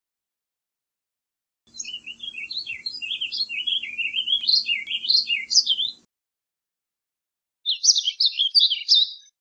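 Warbling vireo singing: a long, rambling warble of rapid notes rising and falling for about four seconds, then after a pause a shorter phrase of the same kind near the end.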